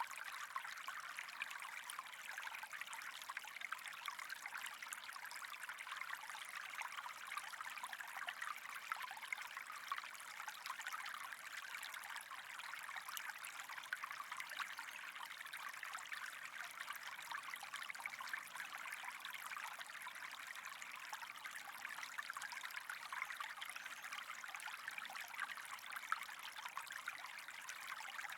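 Water running and trickling in a steady, unbroken stream, a fine crackly wash without change.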